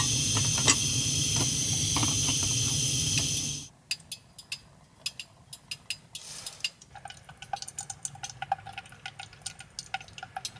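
A camp stove burner hisses steadily while heating water for coffee, then is shut off abruptly about three and a half seconds in. Light clinks, taps and small pouring and stirring sounds of coffee being made in a cup follow.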